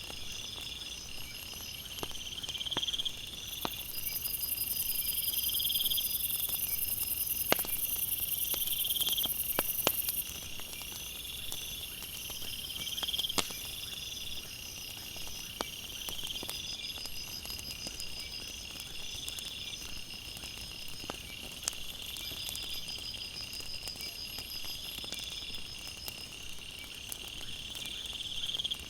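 Night insects, crickets chirping in several overlapping pulsed trills that repeat every second or two, with a high, steady insect buzz for about six seconds early on. Scattered sharp crackles from a wood fire pop in over them.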